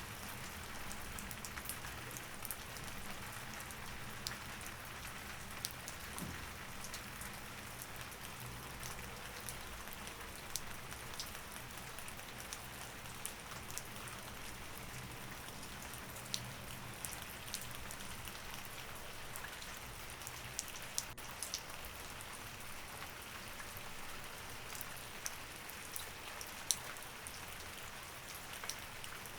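Steady rain falling, with many separate drops tapping sharply on a surface, over a faint low steady hum.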